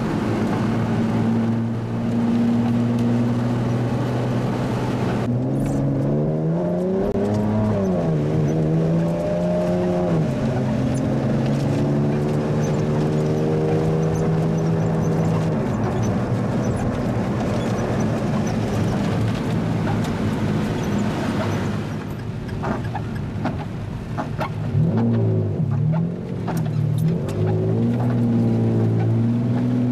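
Supercar engine heard from inside the cabin: it runs steadily, rises and falls in pitch as it revs about six seconds in, then makes several quick up-and-down pitch changes near the end, with sharp clicks among them.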